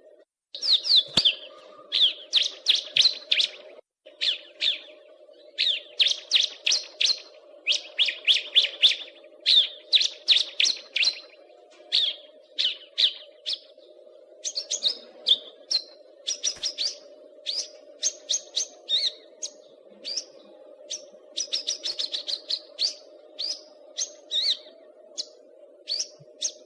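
Caged songbird singing in fast runs of short, sharp, falling chirps, phrase after phrase with brief pauses, over a steady low hum.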